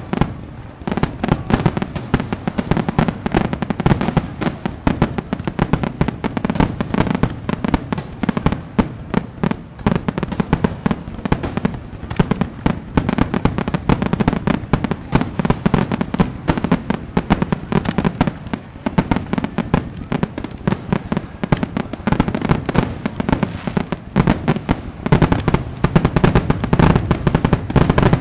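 Fireworks display: a dense, unbroken barrage of bangs and crackles, many reports a second over a deep rumble, growing louder near the end.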